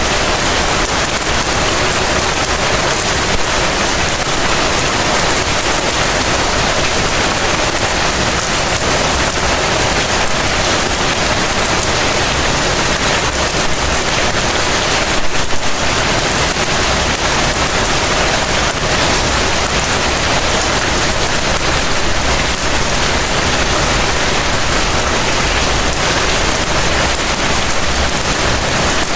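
Heavy rain falling steadily, an even hiss with one brief louder patch about halfway through.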